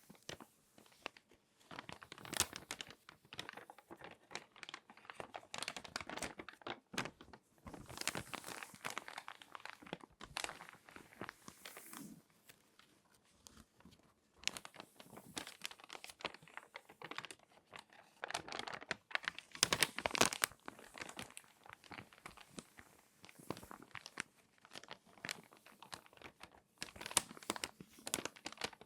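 Glossy magazine pages being folded and handled close to the microphone: irregular crinkling and crackling in uneven bursts, with the loudest crackles about two thirds of the way through.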